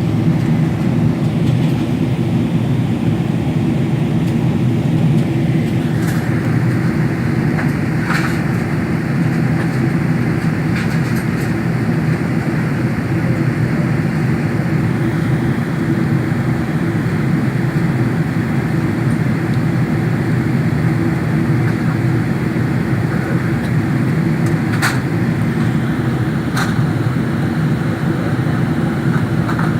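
Steady rumble of a Boeing 777-300ER heard inside the cabin, its GE90 engines and the airflow running evenly, with a few faint clicks.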